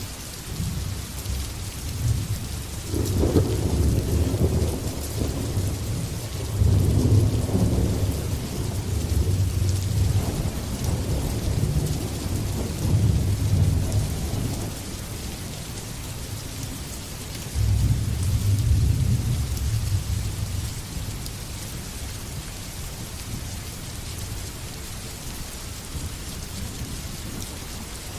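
Steady heavy rain with rolling thunder: low rumbles swell about three seconds in, again about six seconds in, and once more past the middle, each dying away slowly over several seconds.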